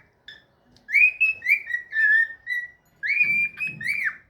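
Cockatiel whistling a tune: two runs of short, clear notes that rise and fall in pitch, starting about one and three seconds in.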